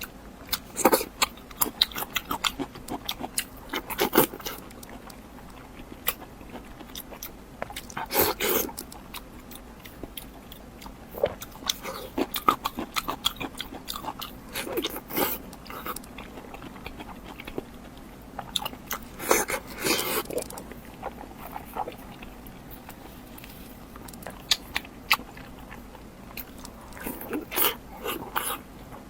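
Close-miked eating: a person biting and crunchily chewing food in many short crackles, with louder bites about 4, 8 and 20 seconds in and near the end.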